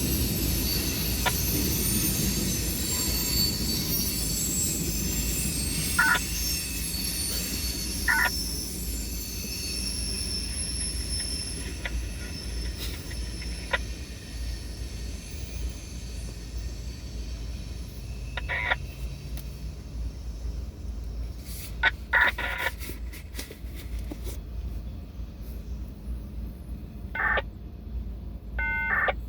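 Freight train cars rolling past on the rails with a steady low rumble and high-pitched wheel squeal, the squeal fading out after about ten seconds. Short knocks now and then in the second half.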